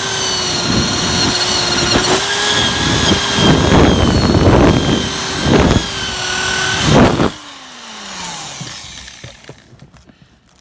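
Electric drill with an abrasive scrubbing attachment running at speed and grinding paint off bare metal, with repeated louder surges as it bites the surface. It stops about seven seconds in and winds down with a falling pitch.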